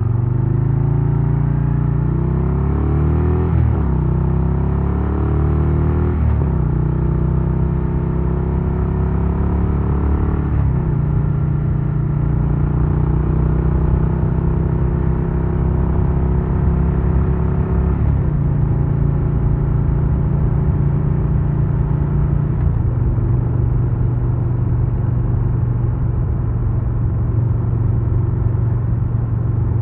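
Harley-Davidson Low Rider S's Milwaukee-Eight 117 V-twin accelerating through the gears: the engine note climbs, then drops at each of about five upshifts, the later ones further apart. In the last few seconds it runs at a steady pitch.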